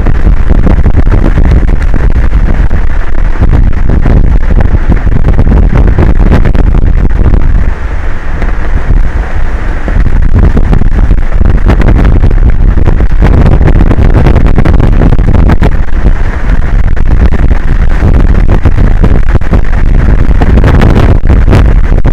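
Wind buffeting an outdoor camera microphone: a loud, near-constant rumbling rush that eases briefly about eight seconds in.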